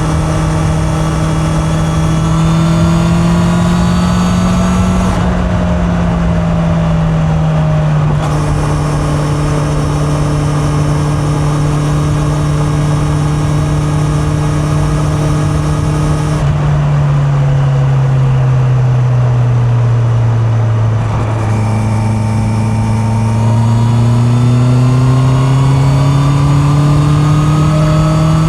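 Honda CB650R's inline-four engine under way, picked up from the rider's back pocket over steady wind and road rush. Its note climbs gently for the first few seconds, dips, holds a steady cruise, sags to a lower note past the middle as the throttle eases, then climbs steadily again toward the end.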